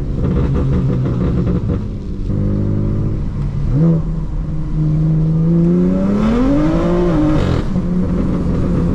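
BMW F80 M3's S55 twin-turbo straight-six, through an equal-length exhaust, revving under acceleration. The note sweeps up briefly a little before four seconds in. From about five seconds it climbs steadily, with a rising hiss, then falls back sharply about seven and a half seconds in. It is the higher-rpm sound that the owner judges fixed by the equal-length exhaust.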